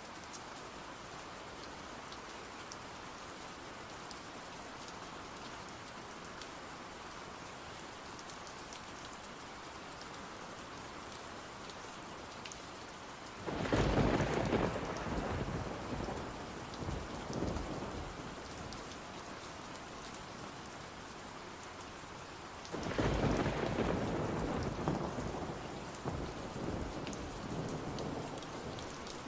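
Steady rain with two rolls of thunder, the first about 13 seconds in and the second about 23 seconds in, each rumbling for several seconds before fading back into the rain.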